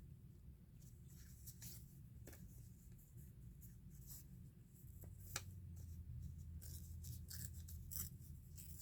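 Faint paper-crafting sounds: light scrapes, rustles and small ticks of paper being handled and worked at a table, over a low steady hum that deepens about halfway through.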